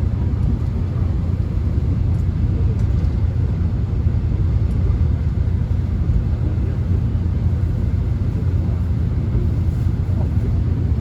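Inside a moving subway train: a steady, low running rumble from the wheels and motors, with no distinct events.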